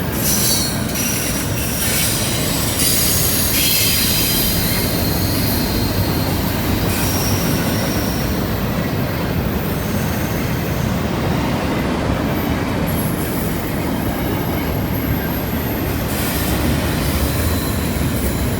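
Freight train cars rolling through a curve: a steady rumble of wheels on rail, with high-pitched wheel flange squeal that is strongest over the first several seconds and then fades.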